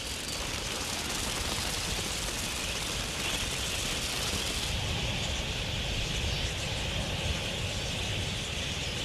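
A large flock of birds massed at a waterhole: a steady wash of noise from the crowd, with a dense, high chatter that thickens about three seconds in.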